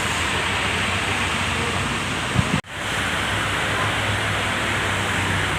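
Steady rushing noise of heavy rain and traffic on waterlogged roads. About two and a half seconds in there are two short low knocks, and then the sound cuts out for a moment before it returns.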